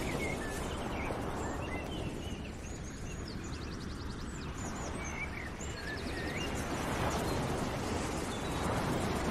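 Birds chirping, with a couple of short rapid trills, over a steady background noise.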